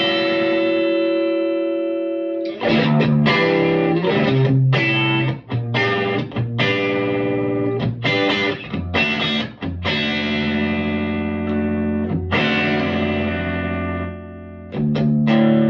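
Electric guitar played through a Vintage Sound Amp (VSA) tube amp on its tweed channel, volume at about 3.5. Strummed chords are left to ring, several held for two seconds or more.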